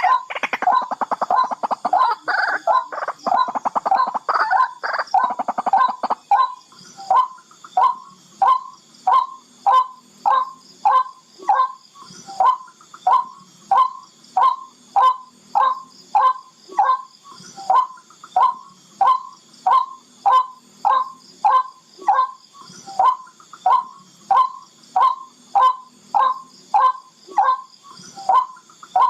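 Barred rail calling. It gives a rapid run of harsh notes for the first few seconds, then settles into a steady series of short, evenly spaced notes, somewhat under two a second.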